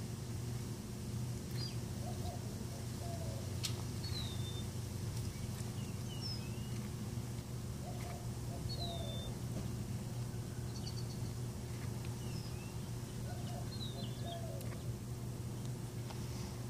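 A bird singing short phrases of high chirps, some falling in pitch, repeated every few seconds over a steady low hum.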